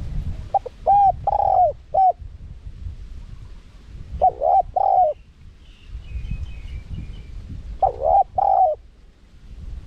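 Spotted dove cooing: three phrases of about four notes each, roughly every three and a half seconds, over a low rumble. A small bird twitters faintly between the second and third phrases.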